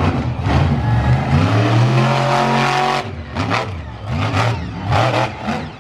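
Monster truck engine revving hard: the pitch climbs for a second or so and cuts off sharply about halfway through, followed by several short, sharp bursts of throttle.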